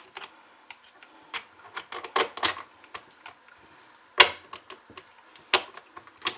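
Irregular clicks and light knocks of hand tools and small parts being handled, with a cluster around two seconds in, the loudest sharp click about four seconds in and another shortly before the end.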